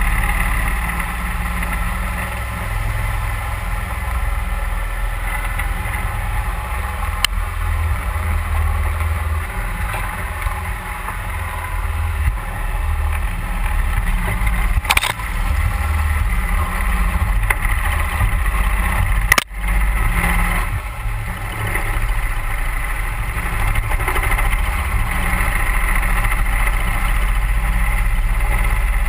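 31 hp Mud Buddy HyperDrive surface-drive mud motor running steadily as the boat moves up the creek. A sharp knock comes about halfway through, and a harder jolt, the loudest sound, about two-thirds through.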